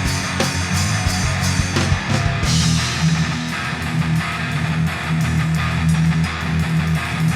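Instrumental passage of a progressive alternative-rock song: distorted electric guitars and bass over drums, with cymbals getting brighter about two and a half seconds in.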